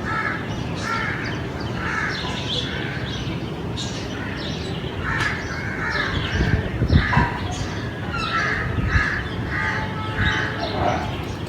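Crows cawing in repeated runs of short, harsh calls, several in a row, over a steady low background rumble.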